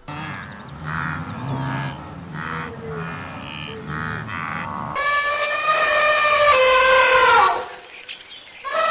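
Animal calls: a run of about five short calls, then a long high call, held and dropping in pitch at its end, with another starting near the end.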